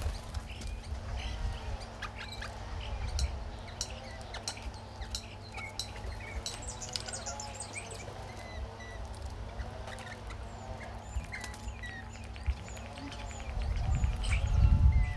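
Birds chirping and calling, with many short high chirps scattered throughout, over a low rumble that grows louder near the end.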